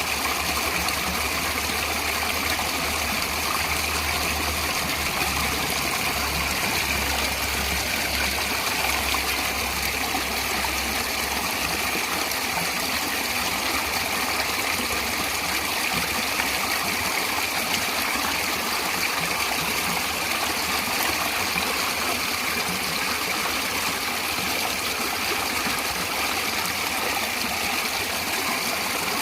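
Natural stream water running steadily, an even, continuous rushing and trickling.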